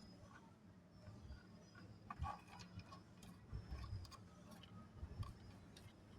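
Faint, irregular small clicks and light rattles of dry namkeen snack pieces being picked up and set down during sorting, a little louder about two seconds in and again near the end.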